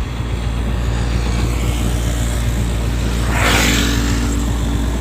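Yamaha YBR 125G motorcycle's single-cylinder engine running steadily on the move. A rush of noise swells and fades about three and a half seconds in.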